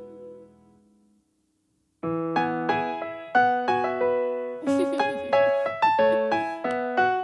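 Piano playing a gentle melody over a repeating low accompaniment, the notes coming evenly about three a second. It starts about two seconds in, after a fading sound and a moment of silence.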